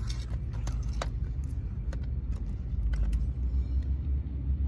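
Steady low rumble with a few short, sharp clicks scattered through it.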